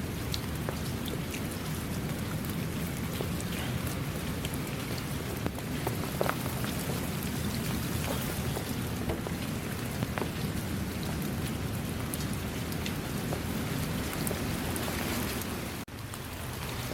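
Steady heavy rain: a dense hiss with individual drops ticking through it over a low rumble. It breaks off for an instant near the end.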